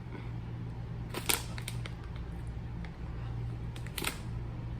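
Quiet mouth sounds of someone chewing candy, with two sharp clicks, about a second in and near four seconds, over a steady low hum.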